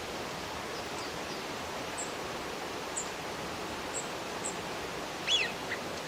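Small wild birds calling over a steady outdoor background hiss: short, very high, thin notes about once a second, then a louder call falling in pitch about five seconds in, followed by a brief second note.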